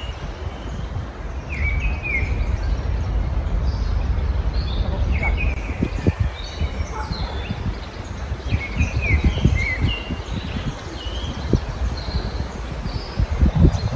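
Small songbirds chirping and trilling in short phrases, several calls overlapping, over a steady low rumble.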